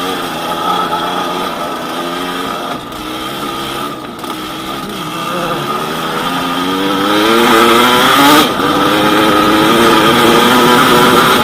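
Yamaha DT200WR's two-stroke single-cylinder engine running under load as the dirt bike is ridden, its pitch rising as it accelerates, briefly dropping about eight seconds in as for a gear change, then holding high and steady.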